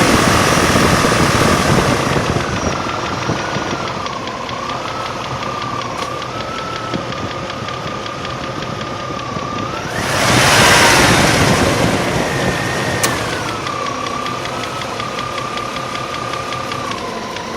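Range Rover P38's 4.6-litre V8 running with a fast, even ticking and a whine that rises and falls with engine speed, plus a louder surge about ten seconds in. The owner hopes the tick is a tappet bouncing on a worn cam, fearing a slipped cylinder liner.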